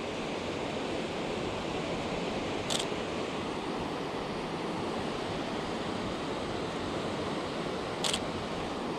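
Steady rush of the Potomac's rapids at Great Falls, with two short sharp clicks of a camera shutter, about three seconds in and again near the end.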